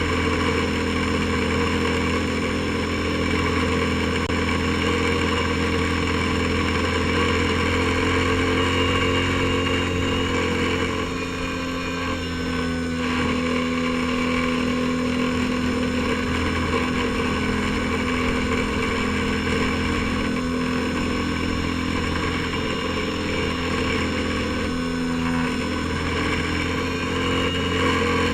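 Airboat engine and propeller running steadily at a constant speed, easing off slightly for a couple of seconds about eleven seconds in.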